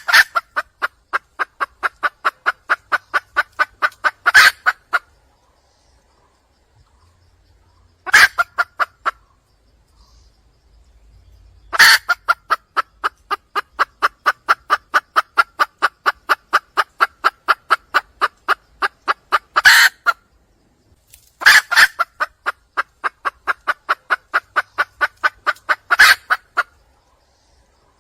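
Red junglefowl hen calling: four runs of rapid, evenly spaced clucking notes, about five a second, each run opened and closed by a louder note, with short silent pauses between runs. This is the hen's call for a mate.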